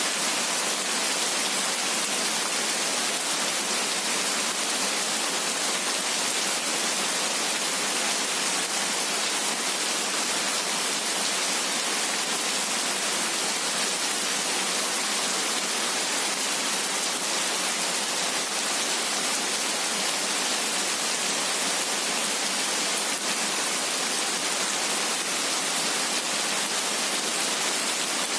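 Steady rain falling, an even hiss that is strongest in the high end, with no separate drops or thunder standing out.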